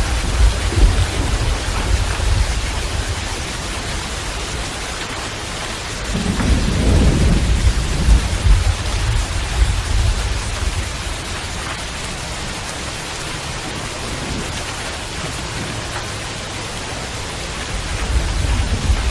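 Steady heavy rain hissing, with a deep low rumble underneath that swells noticeably about six seconds in and fades again a couple of seconds later.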